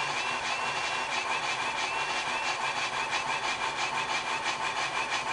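Onboard sound decoder of an MTH HO scale Union Pacific Big Boy 4-8-8-4 model steam locomotive playing steady, rhythmic steam chuffs through its small speaker as the model runs slowly.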